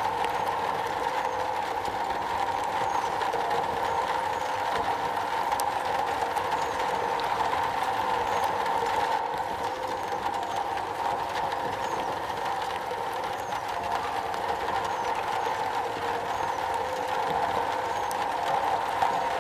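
Steady rain drumming on a metal roof, a dense, even wash of drops with no let-up.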